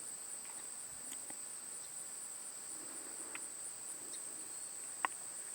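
Steady, high-pitched chorus of crickets trilling, with a single sharp click about five seconds in.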